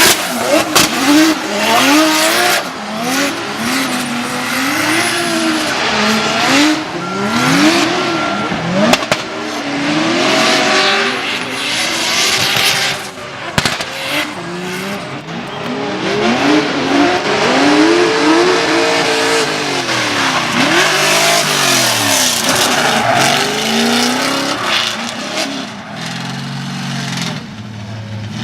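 Drift car engines revving up and falling back again and again, with tires squealing and skidding as the cars slide. The sound eases off a little near the end.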